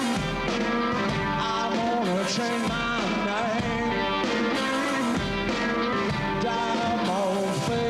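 Live blues-rock band playing: distorted electric guitar and drums with a singer's voice wavering over them, at a steady level.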